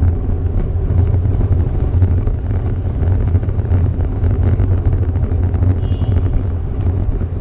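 Steady low rumble of a moving vehicle's engine and road noise, with no impact or sudden sound.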